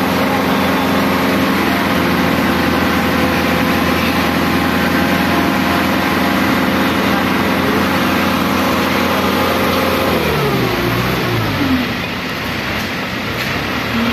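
An engine running steadily at a constant speed, its pitch then falling away about ten seconds in as it slows down.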